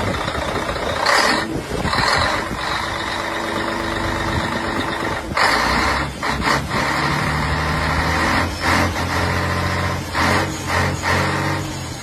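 Truck engine running, with short hissing bursts about one and two seconds in and again at about five and a half seconds; a low engine hum sets in from about four seconds.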